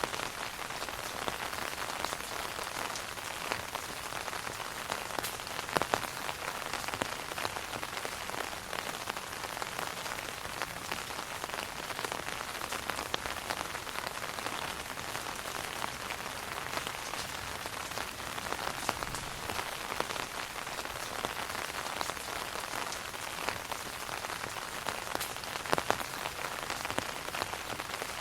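Steady rain falling on an umbrella overhead: a constant hiss of drops with many separate drop hits scattered through it, a couple of sharper, louder hits about six seconds in and near the end.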